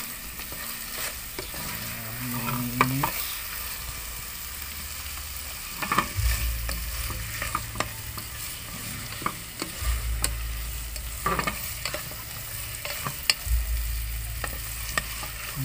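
Creamy tilapia sisig frying in a nonstick pan, a steady sizzle while a slotted spatula stirs and scrapes through it, with many short clicks of the spatula against the pan. A low rumble comes and goes three times.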